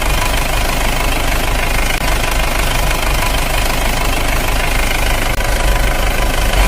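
An engine running steadily at a constant speed, with a strong, even low pulse throughout.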